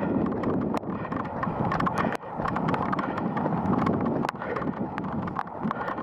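Wind buffeting the camcorder's microphone in a gusty rumble, with scattered sharp clicks and taps throughout.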